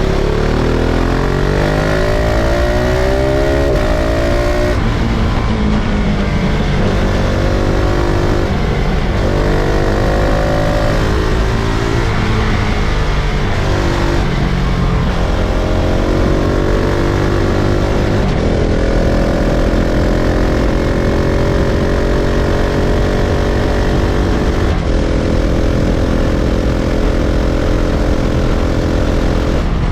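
KTM 690 SMC-R's single-cylinder four-stroke engine accelerating through the gears on the move, its pitch climbing and then dropping at each shift several times. Near the end it holds a steadier pitch with one more shift.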